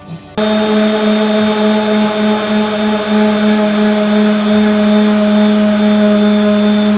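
An electric power tool's motor starts abruptly about half a second in and runs steadily at one speed, a loud even hum with a hiss over it.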